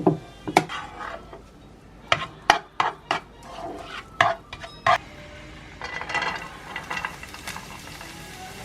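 A utensil clinking and scraping against a frying pan with a run of sharp taps, then crumbled tofu sizzling as it is stirred and fried, from about six seconds in.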